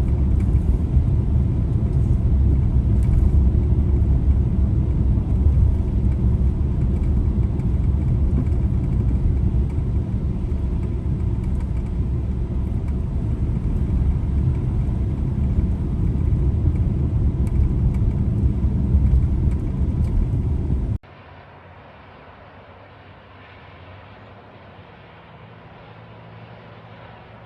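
Car driving on a snowy road: a loud, steady, low rumble of the tyres and engine. About 21 seconds in it cuts abruptly to a much quieter, muffled hum.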